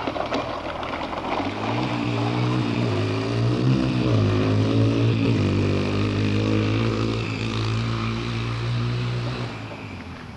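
Dirt bike engine running at fairly steady revs, with a couple of brief dips in pitch, then fading away near the end.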